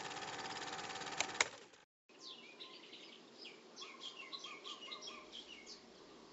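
A steady mechanical hum that ends with two clicks and a short gap, followed by birds chirping: many short, quick chirps that fall in pitch, with a few repeated lower notes midway.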